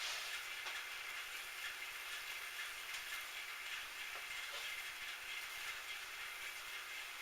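Metal lathe running steadily with a hissing, whirring noise and a few faint light ticks.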